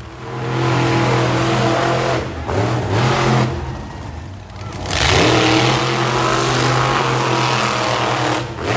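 Monster truck engine held at high revs under hard throttle, in two long pulls with a lull between them around the middle.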